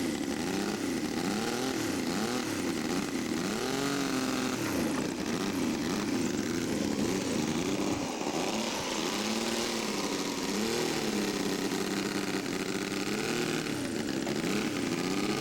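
Engine of a large-scale radio-controlled model airplane running in flight. Its pitch swings up and down over and over as the plane passes and the throttle changes.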